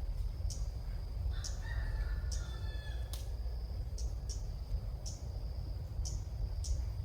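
A rooster crows once, starting about a second in and lasting a second and a half, with a falling pitch. Under it runs a steady high buzz with clicks about twice a second.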